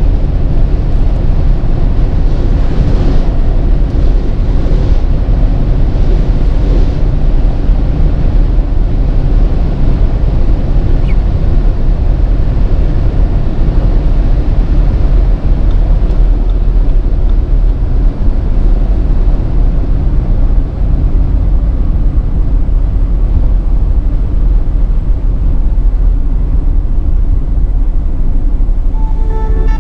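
2019 Audi Q8 50 TDI's 3.0 V6 turbodiesel running at speed, with a steady mix of engine, tyre and wind noise heard on board.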